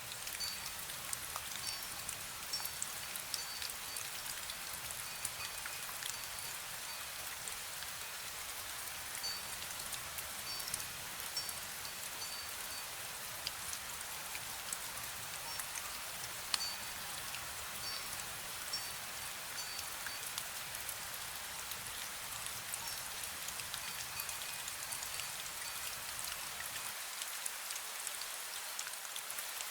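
Steady light rain, a soft even hiss with scattered drop ticks, and a metal wind bell giving brief high rings now and then.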